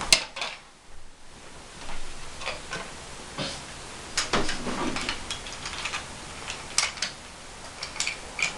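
Wooden toy train engines and wooden track being handled, giving irregular light clicks and clacks, a sharp one right at the start and small clusters further on.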